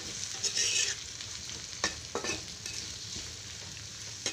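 Chopped onions and green chillies sizzling in oil in a karahi, with a spatula scraping and knocking against the pan in a few separate stirring strokes.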